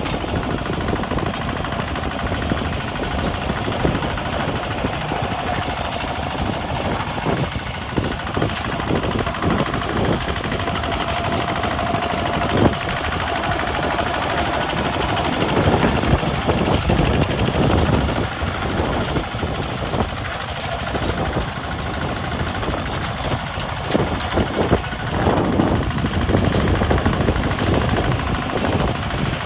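Single-cylinder Kubota RT diesel engine of a homemade walking tractor chugging under load while plowing a field, with a rapid knocking beat. It grows louder for a few seconds about halfway through and again near the end.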